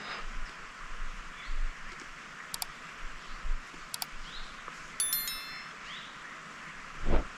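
Steady outdoor hiss, with two sharp clicks, a short metallic ding about five seconds in, and a louder low thump near the end.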